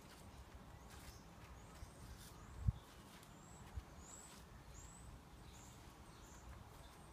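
Faint outdoor ambience: a few short, high bird chirps from about three to six seconds in, over a low steady rumble. A soft thump about two and a half seconds in is the loudest sound.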